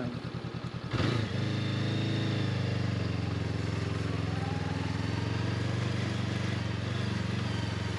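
Honda CB500X parallel-twin engine ticking over with a slow pulsing beat, then about a second in the throttle opens and it runs steadily at higher revs, pulling away up a gravel climb.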